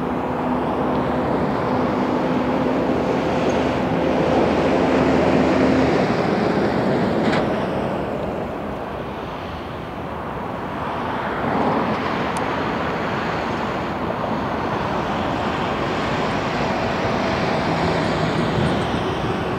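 Union Pacific freight train approaching, its GE C45AH diesel-electric locomotives with 12-cylinder engines running under the steady rumble of the train.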